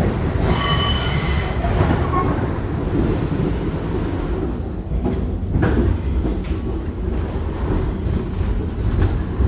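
Kawasaki R62 subway train running with a steady low rumble from wheels on rail. There is a brief high-pitched wheel squeal about half a second in, and a fainter squeal near the end.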